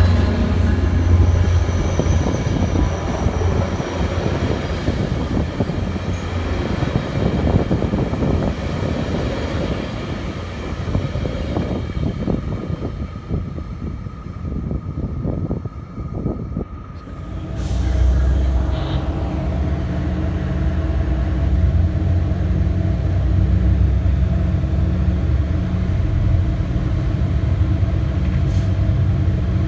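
Bilevel passenger coaches rolling past with rumbling wheel-and-rail noise that thins out as the train clears. After a cut about 17 seconds in, the steady low hum of an F59PHR diesel-electric locomotive running at close range.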